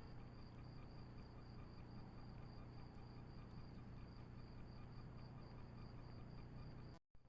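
Near silence: a faint steady low hum and thin high whine, with faint rapid, even insect chirping. The sound cuts out briefly near the end.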